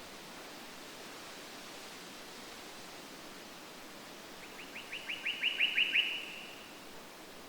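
A bird sings a short, rapid series of about ten repeated notes, growing louder as it goes, a little past halfway through, over a steady background hiss.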